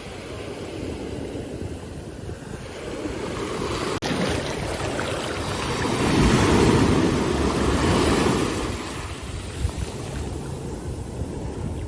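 Ocean surf washing on a beach, with wind on the microphone; a wave swells loudest a little past halfway through, then recedes.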